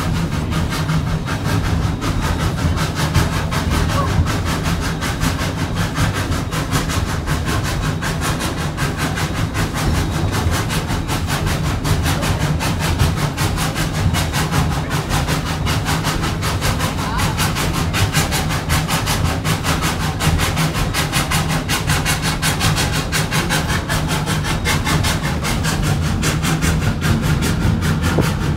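Narrow-gauge steam train running on the climb, heard from a passenger car: a steady low rumble of wheels on rail with a rapid, regular beat that does not let up.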